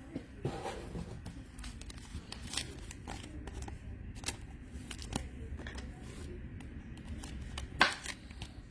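Trading cards being handled: cards sliding and scraping against each other with a scatter of small clicks, and one sharper click near the end.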